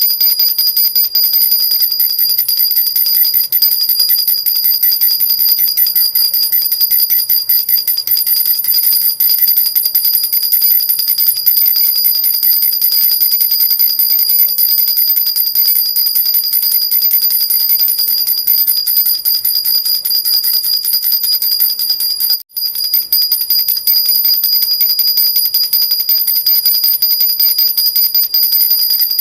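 Jhunjhuna baby rattle shaken rapidly and steadily, giving a continuous jingling with bright, high ringing tones. It breaks off for a moment about twenty-two seconds in, then carries on.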